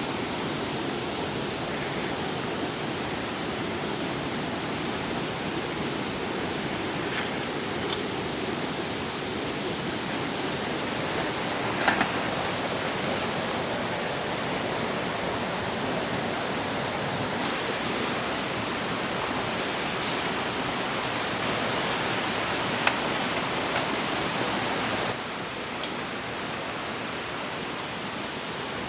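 Steady rushing of a river flowing over rocks, with a few sharp clicks and knocks scattered through it and a thin high whine for a few seconds midway.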